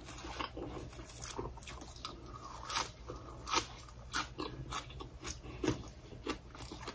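Close-up eating sounds: chewing and crunching of fresh leafy greens with sticky rice, a string of irregular sharp crunches and wet mouth clicks.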